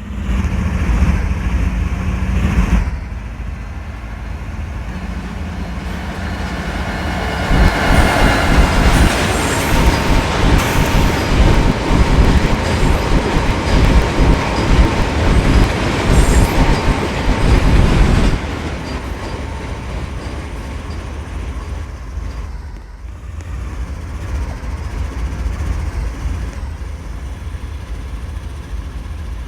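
Norfolk Southern freight train rolling past, a heavy rumble of wheels on rail with a thin steady squeal in its loudest stretch. The sound grows louder about a quarter of the way in, then drops off suddenly a little past the middle to a lower, steady rumble.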